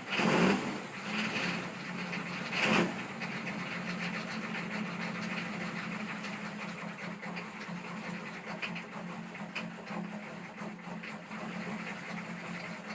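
Diesel pickup truck engine running after a cold start, with two brief louder surges in the first three seconds, then a steady clattering idle.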